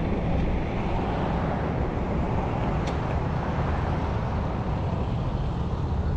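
Steady engine hum and road noise from inside a moving vehicle.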